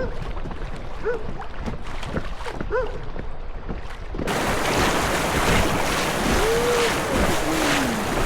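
Paddling a kayak on a river: for the first four seconds, quiet water with short repeated squeaks. Then the sound jumps abruptly to loud rushing water and wind noise on the microphone, with two brief gliding tones near the end.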